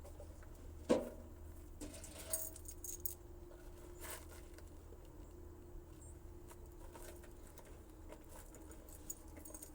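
Keys jangling with a few light clicks and knocks, the sharpest about a second in, as a Cub Cadet garden tractor is readied for a cold start, before the engine is cranked. A faint steady hum sits underneath.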